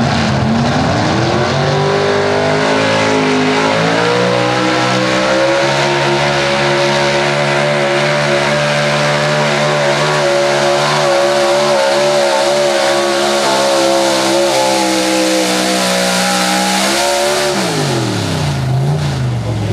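Engine of a 6,200 lb open-class 4x4 pulling truck at full throttle on a sled pull. It revs up over the first few seconds, holds high and steady with slight wavering for about twelve seconds, then drops away quickly near the end as the throttle is let off.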